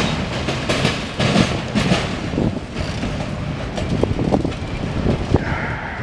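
CSX freight train of autorack cars rolling past, wheels knocking irregularly over rail joints over a steady rumble.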